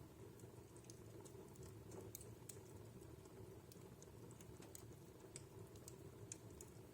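Wood fire in a fireplace crackling faintly: scattered, irregular sharp pops and ticks over a low steady hum.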